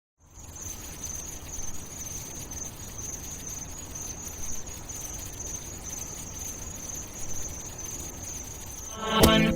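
Steady high-pitched chirring of insects over a low ambient rumble. About nine seconds in, music with a pitched, plucked riff starts loudly.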